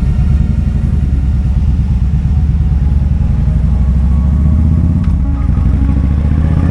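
Kawasaki Vulcan 2000's large V-twin engine running steadily.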